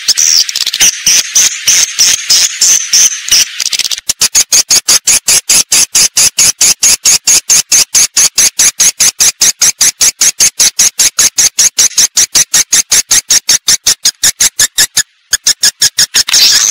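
Edible-nest swiftlet calls played as a swiftlet-house lure: dense, high twittering chirps for the first few seconds, then a fast, even run of sharp clicking pulses, about six a second, with a brief break near the end.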